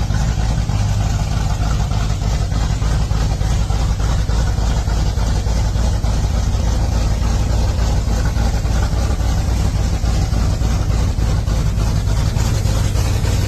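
Stroked 347-cubic-inch Ford small-block V8 of a 1961 Ford Galaxie Starliner race car idling steadily and loudly, with no revving.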